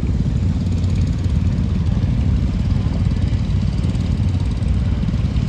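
Tractor engine running steadily, with a rapid low putter that holds even throughout.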